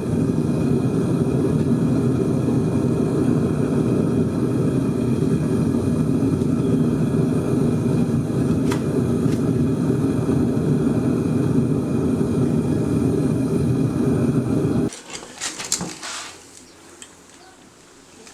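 Melting furnace's burner running with a steady loud rush and hum, shut off suddenly about fifteen seconds in. A few sharp clicks follow just after it stops.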